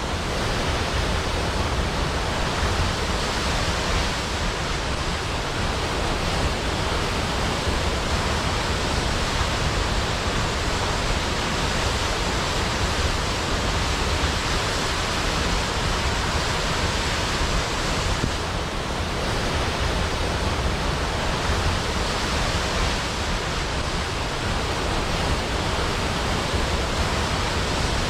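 Waterfall rushing: a steady, even roar of falling water with no breaks or distinct splashes.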